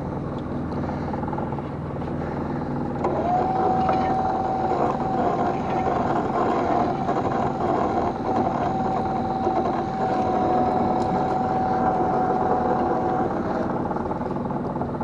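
Small fishing boat's engine running steadily. A steady, even-pitched mechanical whine starts about three seconds in and stops near the end.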